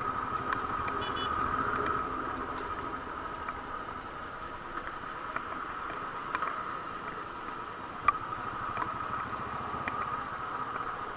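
Steady road and wind noise from a moving motorcycle, with scattered faint ticks and one sharp tick about eight seconds in.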